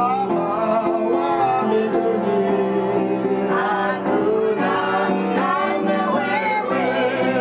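A worship song in Swahili, voices singing over steady instrumental accompaniment.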